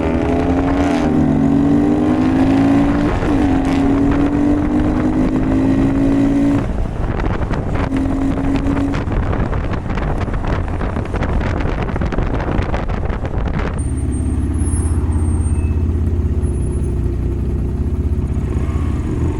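Honda Grom's 125 cc single-cylinder engine pulling up through the gears, its pitch rising, dropping at a shift and rising again, then wind rush buffeting the microphone at speed, settling into a steadier low engine hum near the end.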